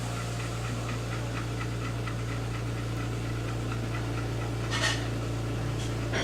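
A mother dog panting softly and rhythmically over a steady low hum, with one short rustle or sniff about five seconds in.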